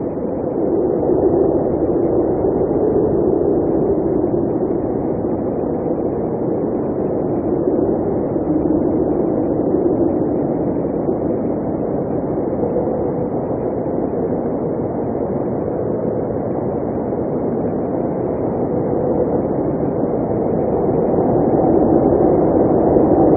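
Blizzard wind blowing in a steady low roar, swelling and easing slowly.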